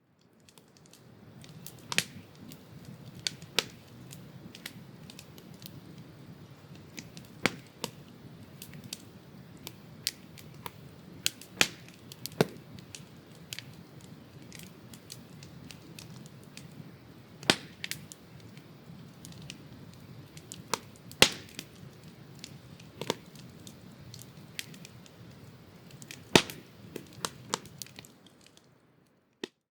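Small wood campfire crackling: sharp, irregular pops and snaps over a steady low hiss of flame. It fades in at the start and fades out near the end.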